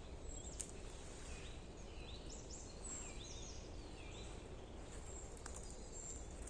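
A bird singing a short run of repeated high chirping notes, starting about a second and a half in, over a steady low rumble. A couple of sharp clicks come through.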